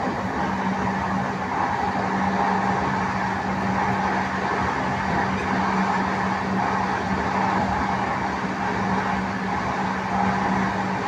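Express passenger train running at speed, heard from inside a coach: a steady rumble of wheels and rushing air with a steady low hum underneath.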